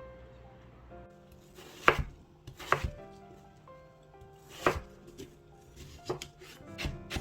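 Knife chopping food on a cutting board in a few separate, unevenly spaced strokes, over soft background music.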